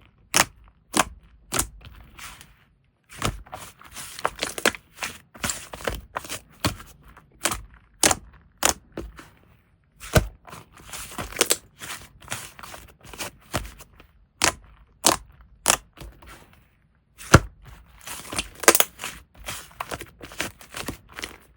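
Slime being squeezed and poked by hand, giving irregular sharp pops and clicks of trapped air with crackly squishing between them, a few a second, broken by short pauses.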